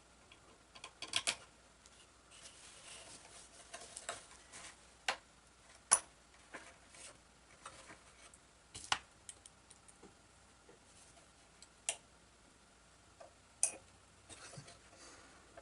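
Sporadic small clicks and taps of hand work with small metal screws and a screwdriver, as an electric motor is screwed onto its mount; the loudest clicks come about 6 and 13.5 seconds in.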